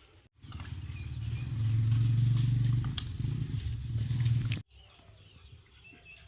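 A low, steady engine hum, loudest in the middle, that starts abruptly and cuts off sharply about four and a half seconds in, with faint bird chirps around it.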